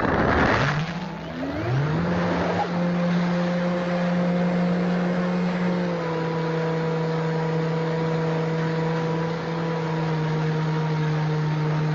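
Electric motor and propeller of a small RC model Cessna 400 plane, heard from an on-board camera: the motor spins up twice in the first two seconds, then holds a steady whine over a rush of wind, dipping slightly in pitch about six seconds in.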